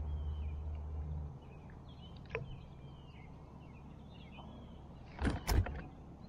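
Small birds chirping over and over in short notes, over a low rumble that cuts off about a second in. Near the end comes a quick cluster of sharp thumps.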